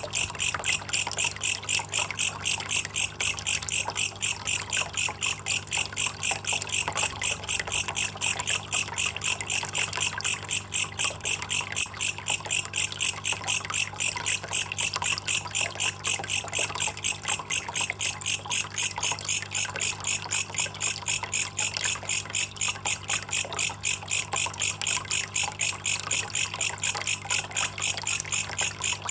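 Belalang kecek insect calling in a steady, rapid pulsing chirp, about five high-pitched pulses a second, over trickling water.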